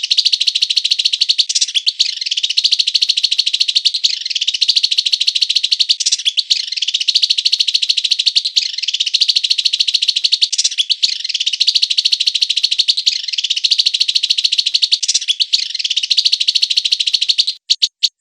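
Recorded songbird song played as a training track: a continuous, rapid, high-pitched trilling chatter, in phrases that repeat about every two seconds. It breaks off shortly before the end, leaving a few short notes.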